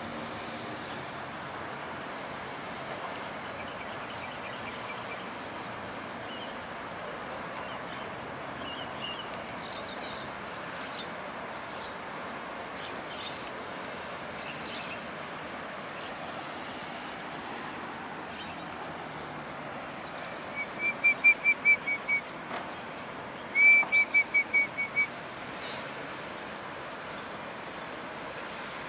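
Smooth-coated otters squeaking: two quick runs of high, chirping squeaks, about seven notes each, a few seconds apart past the middle, with a few fainter chirps earlier, over a steady outdoor hiss.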